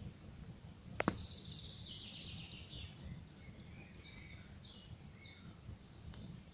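Campfire wood giving one sharp, loud pop about a second in, over a low steady crackle, while songbirds chirp and trill.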